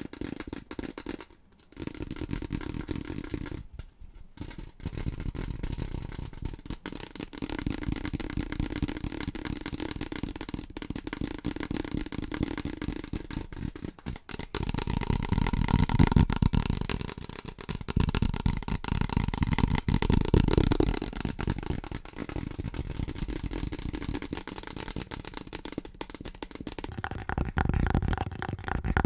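Fast, aggressive tapping on household items: a dense, rapid run of taps that switches to a different-sounding item a few times, with two brief pauses near the start.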